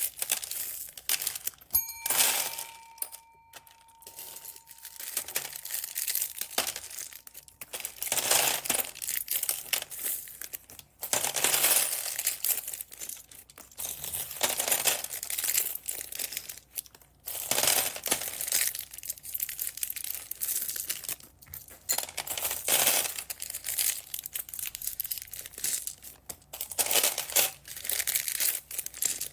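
Plastic bags crinkling in irregular bursts as they are handled and opened. A faint steady ringing tone sounds for a few seconds near the start.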